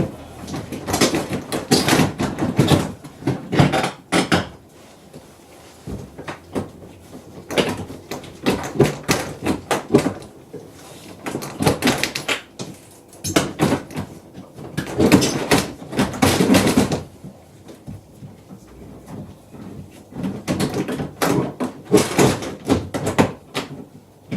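Irregular knocks, clicks and rattles as a Porsche 986 Boxster's engine-access cover panel is handled, seated and its catches pushed down.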